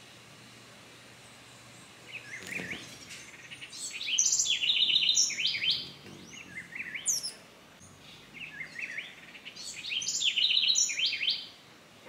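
A bird singing: two loud phrases of rapid, stepped high notes, the first about four seconds in and the second about ten seconds in, with scattered short chirps between them.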